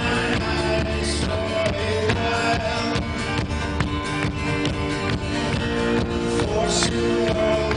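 Live folk-rock band playing: strummed acoustic guitars and banjo over drums and held notes, with a fast, steady rhythm.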